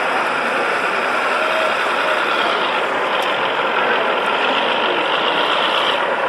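Steady, engine-like idling sound of radio-controlled model trucks and construction machines, with no sudden changes.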